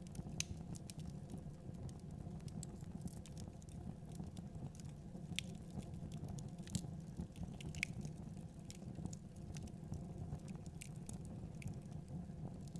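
Fire in a fireplace crackling: irregular sharp pops and snaps, several a second, over a steady low rumble of flame.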